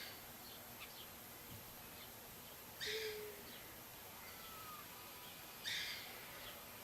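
Birds calling outdoors: one short, loud call repeated three times, about three seconds apart, with faint chirps and brief whistles in between over a steady background hiss.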